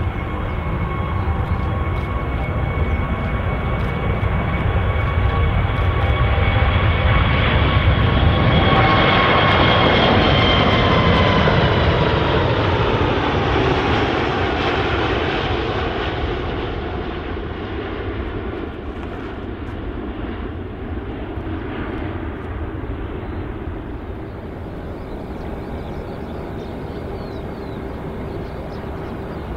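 Jet airliner passing by: its engine noise builds to a peak about ten seconds in. Its whine then drops in pitch as it goes past, and the sound fades away slowly.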